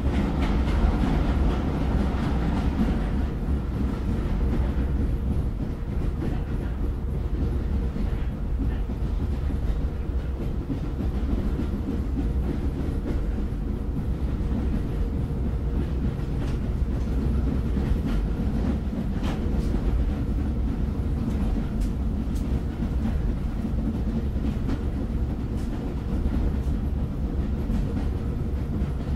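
Train rumbling steadily on the rails after departing a station, with a few faint clicks now and then.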